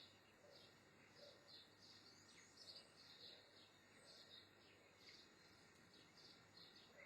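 Near silence with faint, high bird-like chirps repeating about twice a second over a light background hiss.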